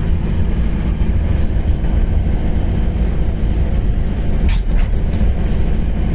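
Steady low rumble of road and engine noise inside a moving vehicle, with two short knocks close together about four and a half seconds in.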